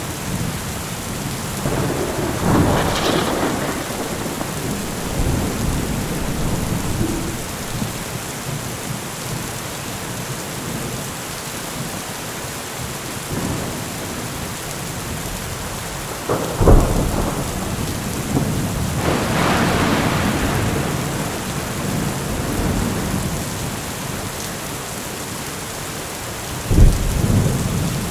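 Heavy rain falling steadily, with thunder: a rolling rumble a couple of seconds in, a sharp crack about halfway through followed by a longer rumble, and another sharp crack near the end.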